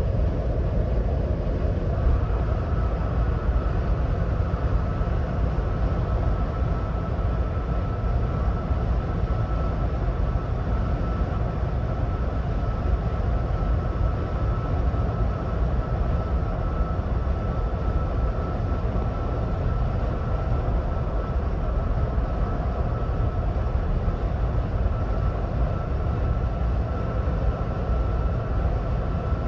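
Ford Bronco Badlands driving at highway speed: a steady rumble of road and tyre noise with the engine under it. A faint steady whine joins about two seconds in and holds.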